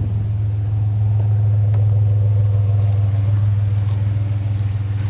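Truck running, a steady low drone with no change in pitch.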